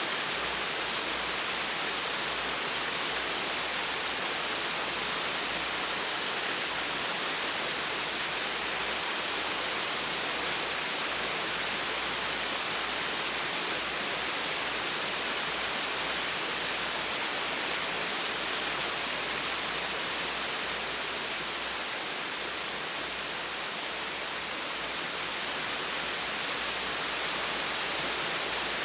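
Small waterfall splashing with a steady, even rush of falling water.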